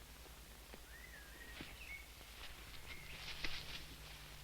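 Faint outdoor farm ambience with a few whistled bird calls gliding up and down in pitch, a burst of high chirps past the middle, and scattered light ticks.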